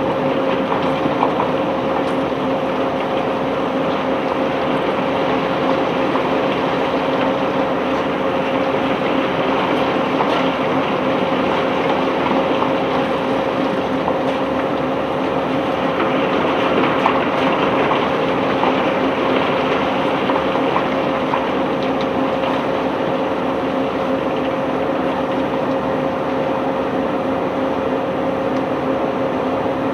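Barge-unloading machinery running steadily with a constant hum, under a continuous scatter of small clicks and rattles from cobblestones being handled.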